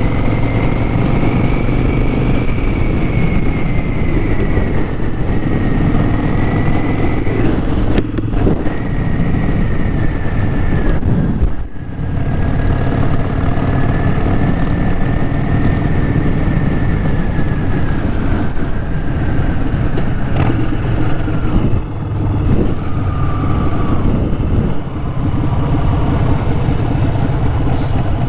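Harley-Davidson Sportster 1200's air-cooled V-twin engine running loud and steady while the motorcycle is ridden. The engine note dips briefly a few times.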